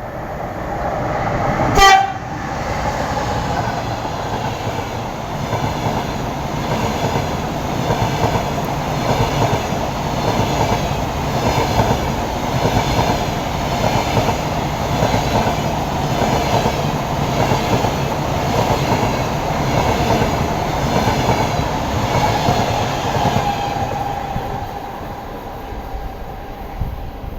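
EP20 electric locomotive giving one short horn blast about two seconds in. Then the locomotive and its double-deck passenger cars pass with a steady rumble and rhythmic wheel clatter over the rail joints, fading near the end.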